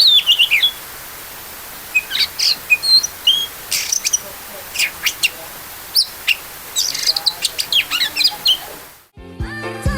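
Oriental magpie-robin (kacer) singing a varied run of sharp chirps and whistles in bursts with short pauses between them. The song fades out about nine seconds in and music with a beat comes in.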